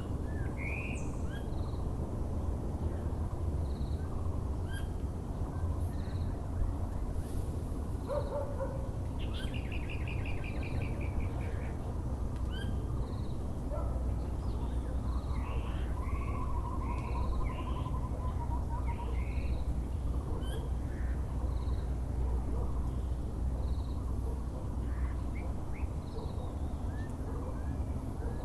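Several birds calling and chirping over a steady low background rumble, with a Muller's barbet calling among them. One short note repeats regularly about every second and a half, a buzzy trill comes in around ten seconds, and a longer falling run of notes follows around sixteen to nineteen seconds.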